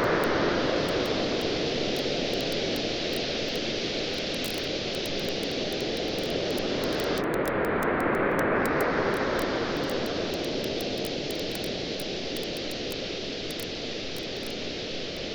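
Waves washing onto a beach, the surf swelling and ebbing twice, with a wood campfire crackling and popping in small sharp snaps throughout.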